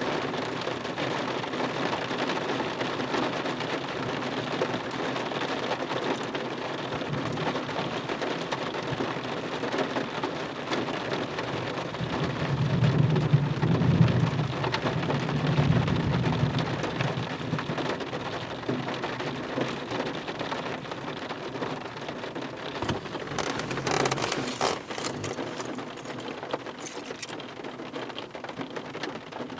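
Heavy rain falling steadily through a thunderstorm. About halfway through, a long, deep roll of thunder swells and fades. A few sharp taps come near the end.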